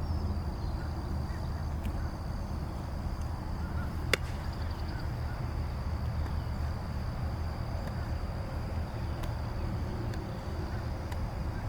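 Outdoor ambience: a steady low rumble under a continuous high, thin insect drone, with one sharp smack about four seconds in.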